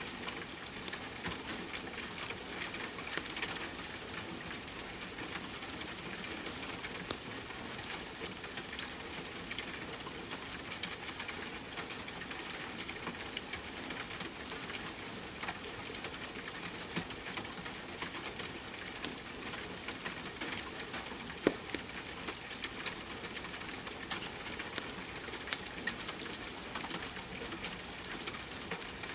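Steady rain hiss mixed with scattered sharp crackles and pops of a wood fire burning in a fireplace.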